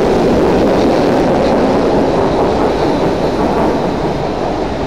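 Singapore MRT train pulling out of an elevated station. Its running noise slowly fades over the second half as it leaves.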